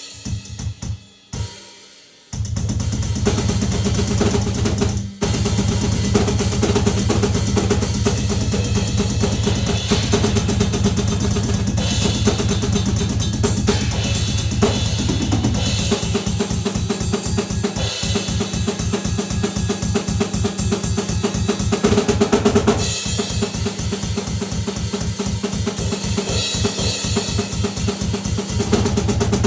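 A drum kit played loud and fast, with dense bass-drum and snare strokes. It stops and starts a few times in the first two seconds and drops out briefly about five seconds in.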